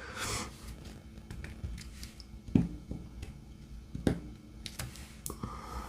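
Scattered small clicks and taps of diamond painting work, with a brief rustle near the start and two sharper taps about two and a half and four seconds in.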